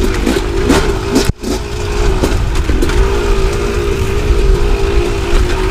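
Two-stroke KTM dirt bike engine running on the trail, its revs holding fairly steady with small rises and dips, over a heavy low rumble of wind on the microphone. The sound drops out for a split second about a second in.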